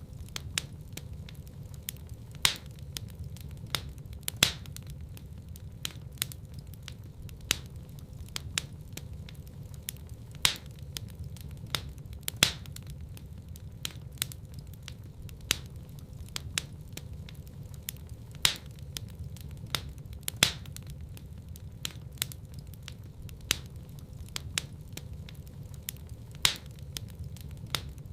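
Fireplace fire crackling: sharp pops and snaps, one or two a second, over a steady low rumble of burning.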